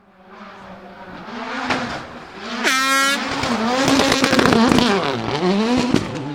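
Rally car engine approaching and revving hard, its pitch climbing and dropping several times through gear changes, with sharp pops and cracks from the exhaust.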